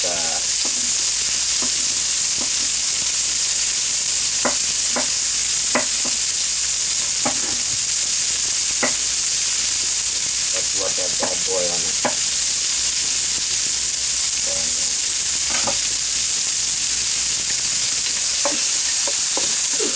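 Sliced Spam sizzling steadily in a hot wok as it is stir-fried, with scattered clicks and knocks from the stirring and chopping.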